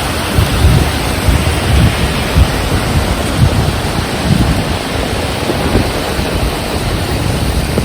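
Heavy rain falling steadily, with strong wind gusting against the microphone in irregular low rumbles.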